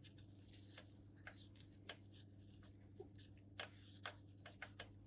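Faint, scattered clicks and light taps of small motorcycle engine parts being handled, over a steady low hum.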